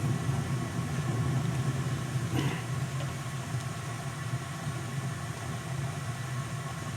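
Steady low mechanical hum, with one faint brief noise about two and a half seconds in.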